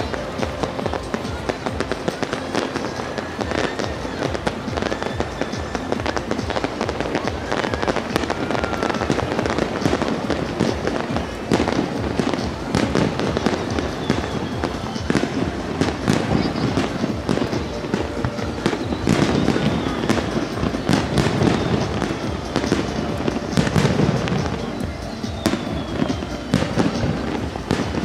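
Aerial fireworks going off in a dense barrage: many overlapping shell bursts and crackles in quick succession, with music and voices underneath.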